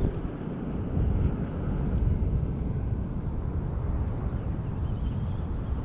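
Low, steady rumble of wind buffeting the microphone outdoors.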